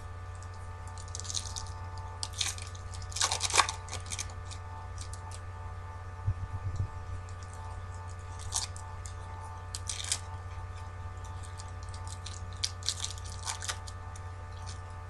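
Foil baseball card pack wrappers crinkling and tearing in scattered bursts as packs are ripped open, over a steady low hum.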